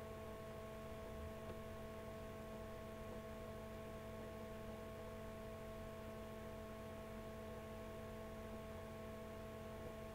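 Faint steady hum made of several constant tones over low background noise, unchanging throughout.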